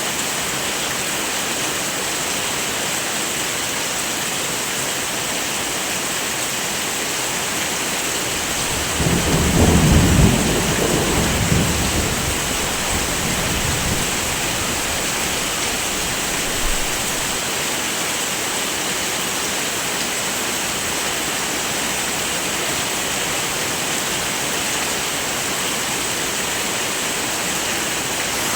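Heavy rain falling steadily as a dense hiss. About nine seconds in, a roll of thunder rumbles low, loudest for a couple of seconds, then fades out over the next few seconds.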